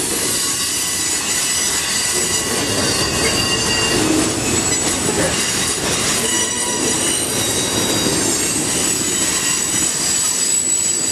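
Union Pacific freight train's cars rolling past, a steady rumble of steel wheels on rail with thin, high-pitched squealing tones running over it.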